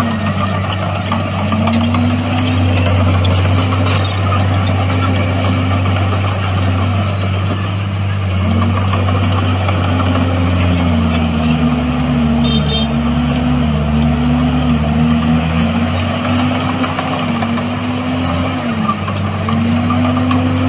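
Diesel engine of heavy earthmoving machinery running steadily with a deep drone, its pitch sagging and recovering repeatedly as the machine takes load, with the deepest dips about a second in, around the middle, and near the end.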